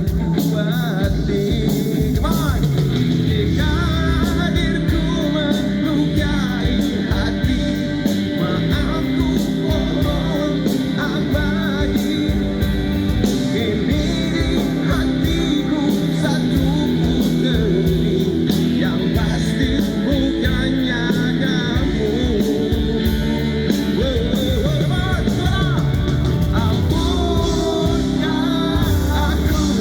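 Live rock band playing a song: drums, bass and electric guitar, with a wavering lead melody over them.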